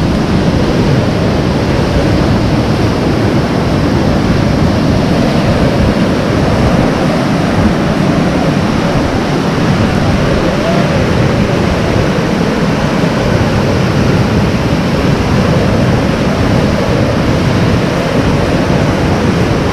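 Heavy rainstorm: a loud, steady rush of downpour, with wind on the microphone.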